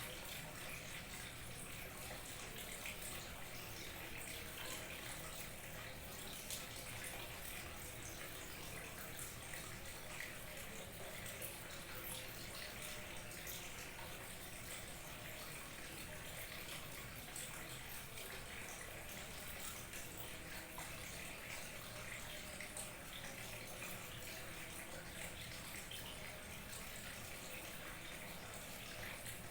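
Small waterfall trickling and splashing steadily.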